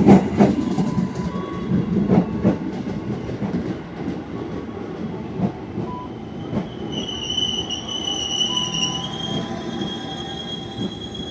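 KRL electric commuter train running on the rails: rumble with repeated clacks over rail joints, then from about seven seconds in a high, steady squeal as it slows toward a station.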